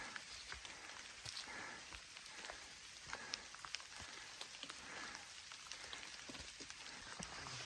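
Faint rain: a steady hiss of falling rain with many scattered drops pattering.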